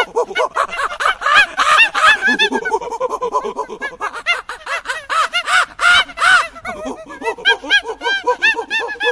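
Monkeys chattering: a rapid, continuous string of short, high calls, several overlapping at once.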